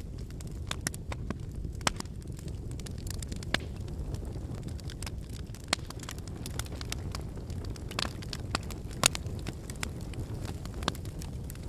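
Wood fire burning: a steady low rush of flames under irregular sharp crackles and pops from the burning firewood, the loudest pop about nine seconds in.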